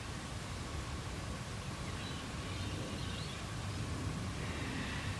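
Australian bush ambience: a few faint bird calls over a steady low rumble.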